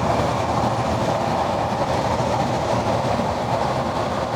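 Steady road and wind noise inside a moving semi-truck's cab with the driver's window down, over the low drone of the engine.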